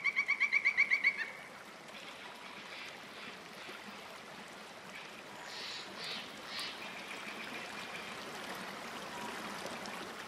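A bird's rapid, evenly pulsed trill, which stops about a second in. After it comes faint, steady outdoor hiss with a few soft rustles.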